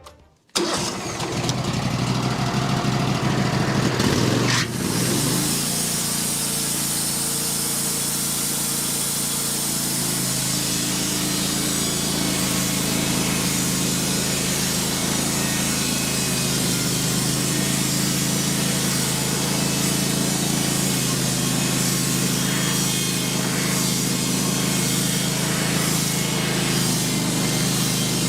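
Wood-Mizer LT15 portable sawmill's engine climbing up to speed over the first few seconds, then running steadily at speed.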